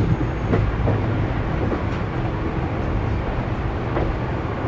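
Diesel-hauled passenger train rolling past: a steady low rumble from the coaches, with a few clicks from the wheels.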